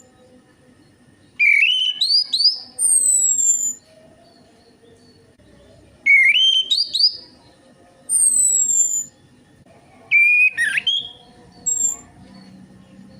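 Orange-headed thrush song used as a lure to get caged thrushes singing: three phrases of loud, rising, slurred whistles, each with thin, high, falling whistles, and short pauses between them.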